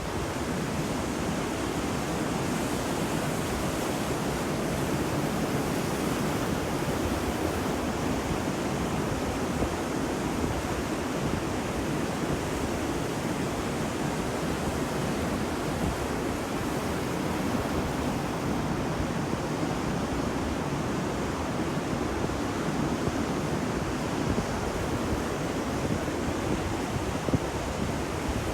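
Ocean waves breaking on a beach: a steady, even wash of surf with no clear separate wave crashes.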